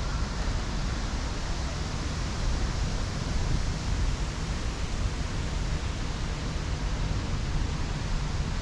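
Steady rushing noise of wind over the camera microphone while riding a bicycle, a fluctuating low rumble under an even hiss.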